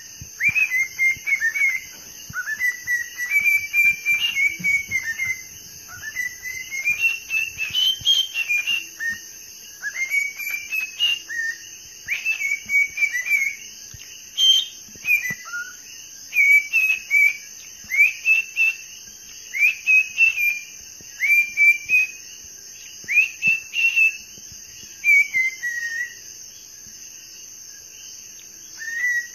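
Parrot whistling a long string of short whistled notes that rise and fall, in quick phrases with a short pause near the end.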